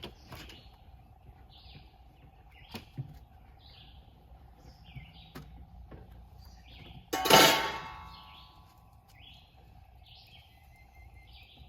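A bird chirping over and over, about once a second, over a faint steady hum, with a few light clicks. About seven seconds in, a single loud clang rings out and fades over about a second.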